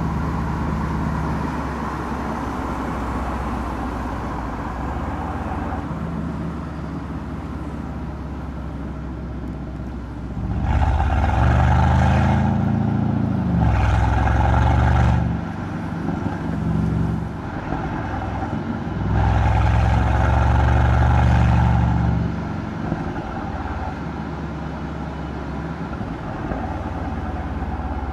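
Mercedes-AMG C63's M177 twin-turbo V8 exhaust while driving: a steady low drone at cruise, swelling loudly several times on the throttle, with the longest pushes around the middle of the stretch, then settling back to cruise.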